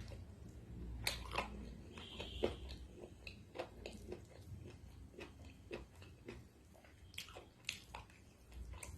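Close-miked chewing and biting of food, a mukbang eater's mouth sounds, heard as many short, irregular clicks.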